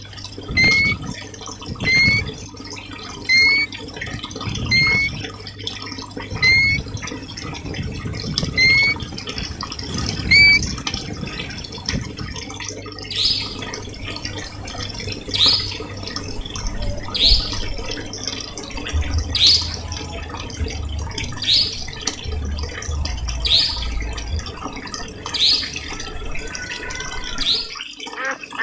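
Repeated bird calls over steadily running water. First a short rising chirp about once a second, then, from about halfway, a different, higher and louder call, also about once a second.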